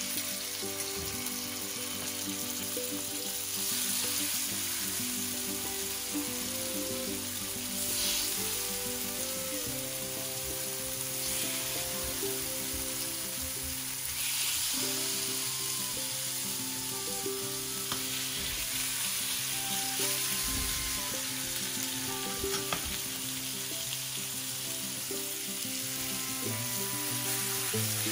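Marinated salmon fillets sizzling in hot oil in a nonstick frying pan, the sizzle swelling a few times as more pieces are laid in with metal tongs. Background music with steady held notes plays underneath.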